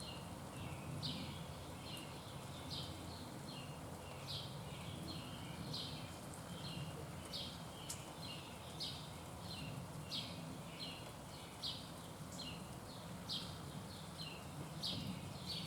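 A bird giving a steady series of short, sharp chip notes, about one or two a second, over a low steady background rumble.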